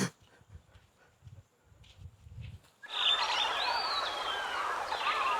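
Faint low thumps, then about halfway in a dense chorus of birds chirping and whistling starts suddenly, with one long whistle that rises and then slides down in pitch.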